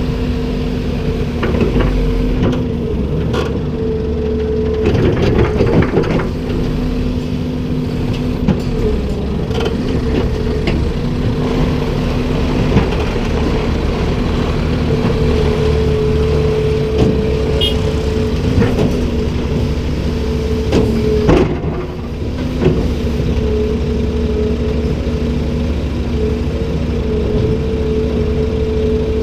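Komatsu PC290-10 excavator's diesel engine running steadily, with a steady tone in its hum that drops out and returns several times, and scattered knocks and clatter throughout.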